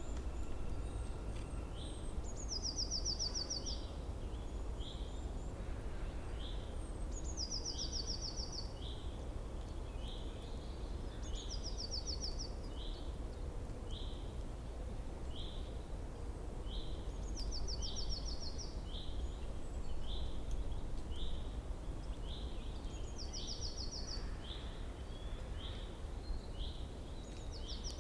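Wild birdsong: a high, rapid trill about a second long repeated every four to six seconds, over a steady series of short falling chirps about once a second, with a low steady background rumble.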